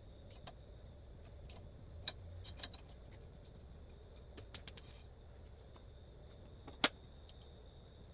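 Scattered light clicks and taps of tools on metal, with one sharper tap about seven seconds in, over a faint steady high whine.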